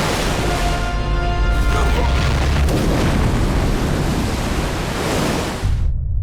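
Film score mixed with the flood's sound effects: a dense rushing noise of torrential water over a deep rumble, with held musical tones about a second in. The high rushing cuts off suddenly near the end, leaving only the low rumble fading away.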